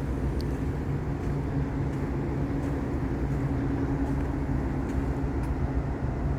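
Steady low engine hum at a constant pitch.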